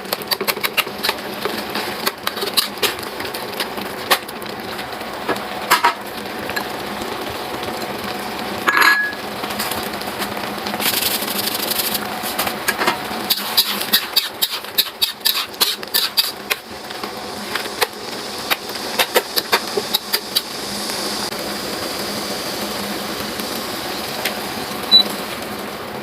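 Irregular run of sharp knocks and clicks over a steady background hiss, with a few louder knocks now and then.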